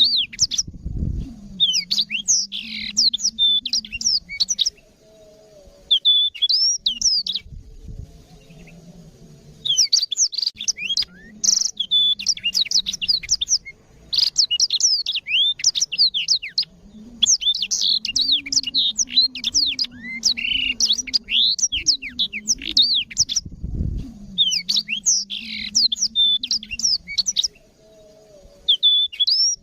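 Black-throated canary singing a fast, continuous twittering song of rapid trills and quick up-and-down notes, in bursts of several seconds with brief pauses between. Two low thuds sound under the song, about a second in and again near the end.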